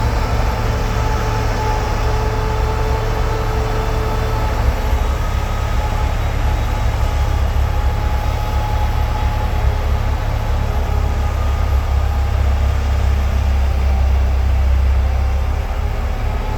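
A heavy vehicle's engine running steadily: a deep, continuous low rumble with faint steady whining tones above it.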